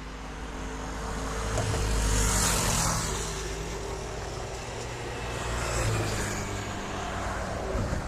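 Road traffic: engine rumble and tyre noise of passing vehicles, swelling as one passes about two seconds in and another about six seconds in.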